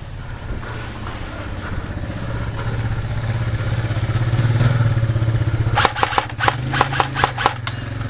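A steady low engine-like drone grows louder. Near the end comes a quick run of about ten sharp cracks, roughly five a second: an airsoft rifle firing semi-automatic.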